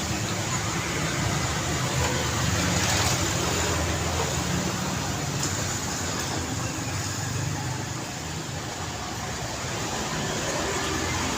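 Road traffic: a steady mix of car and motorcycle engines and tyre noise, easing slightly about two-thirds of the way through before building again.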